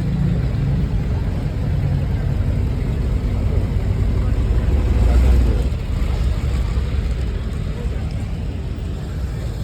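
Car engine rumbling, growing louder about halfway through and then easing off, with faint voices behind it.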